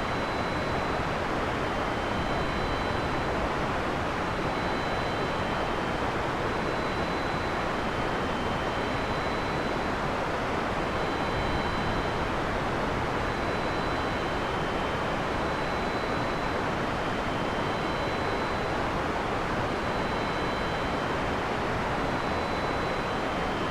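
Heavy rain falling steadily, an even hiss with no thunder. Faint short high tones repeat about every two seconds behind it.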